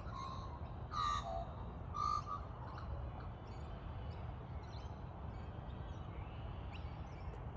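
A few short bird calls, clear single notes in the first two and a half seconds and fainter high chirps after, over a steady low outdoor rumble.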